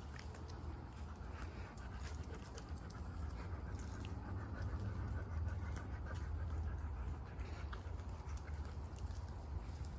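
Golden retriever panting steadily, over a low rumble and scattered light clicks.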